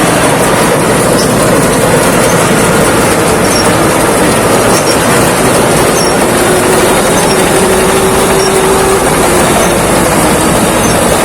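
Thai Seng rice combine harvester running steadily while harvesting, a loud dense machine noise with a faint steady hum through it.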